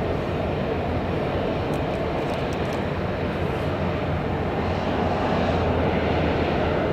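Jet aircraft engines running: a steady, even noise with a low hum beneath it, growing a little louder about five seconds in.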